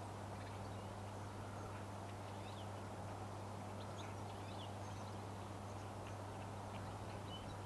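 Small birds chirping faintly, scattered short calls throughout, over a steady hiss and low hum.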